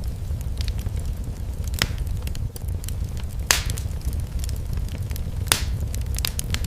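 Fireplace fire crackling over a steady low rumble, with three sharper pops about two seconds apart, the loudest in the middle.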